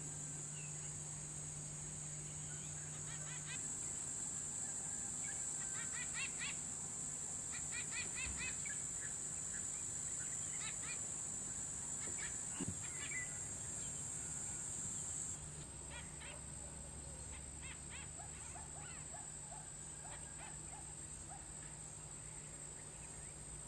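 Scattered bird calls in short, rapid chattering series over a steady high-pitched drone, the background changing abruptly twice.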